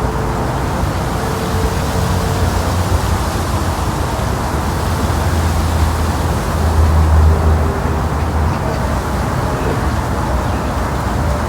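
Steady outdoor city ambience dominated by a low rumble, swelling slightly about seven seconds in.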